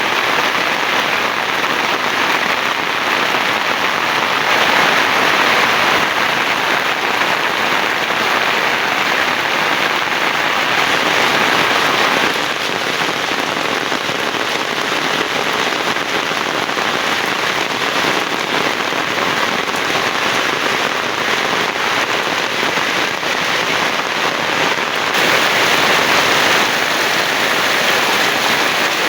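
Heavy rain pouring steadily, a dense even hiss of rain on surfaces that eases slightly partway through and picks up again near the end.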